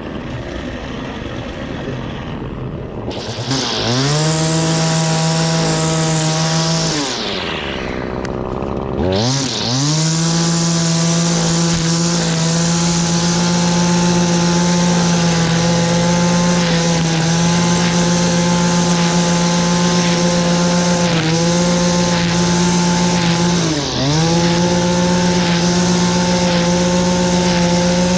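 Gas string trimmer (weed whacker) engine revving up to full throttle a few seconds in, dropping back toward idle about eight seconds in, then held at high, steady speed with two brief throttle dips.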